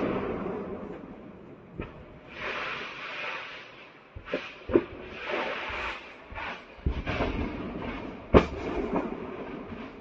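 Ammunition depot burning, its stored munitions cooking off: a string of sharp bangs of varying strength, the loudest about eight seconds in, with hissing rushes between them.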